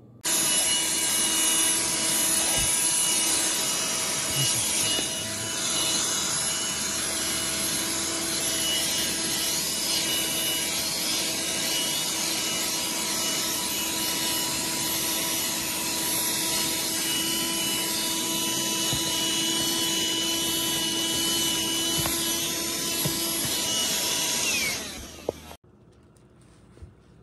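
Black+Decker Dustbuster QuickClean cordless handheld vacuum running steadily, a motor whine over rushing air, switched off about 25 seconds in.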